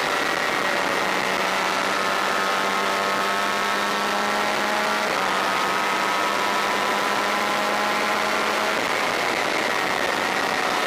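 Honda VFR400 racing motorcycle's V4 engine pulling at speed, its note climbing slowly, with a change of note about five seconds in and again near nine seconds, over a steady rush of noise.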